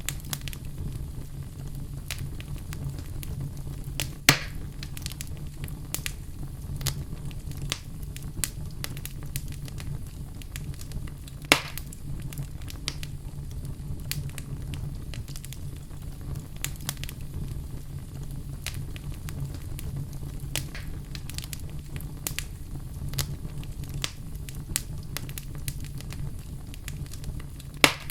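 Fire burning in a fireplace: a steady low rumble under constant irregular crackling, with three louder single pops.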